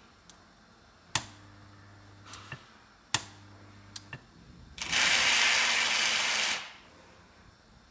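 Electrolux washing machine in its test mode: a relay clicks twice and each time a component hums steadily for about a second before clicking off, then a loud rushing hiss lasts nearly two seconds.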